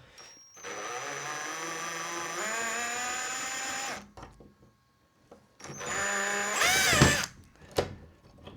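HiKOKI right-angle drill with a flat screwdriver tip running in short bursts, backing out slotted screws. It makes two runs: the first lasts about three seconds and its motor speeds up partway, the second is shorter and its whine rises and then falls near the end.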